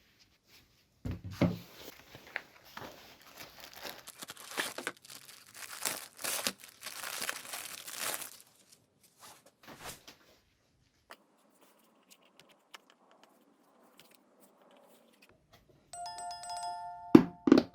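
Irregular rustling, crinkling and clicking of objects being handled. Near the end comes a short steady ringing tone, then a loud knock.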